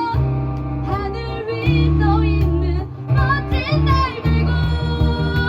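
Live band playing a rock song: a woman singing over acoustic and electric guitars, bass guitar and cajon, with strong bass notes underneath.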